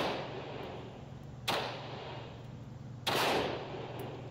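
.22 handgun firing CCI Mini-Mag rounds at a quick pace: two shots about a second and a half apart, each followed by a trailing echo, with the echo of an earlier shot fading at the start.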